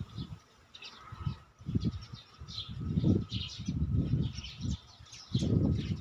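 Small birds chirping in the trees, with many short high notes scattered throughout. Under them are several louder, low muffled bursts, about a second long each.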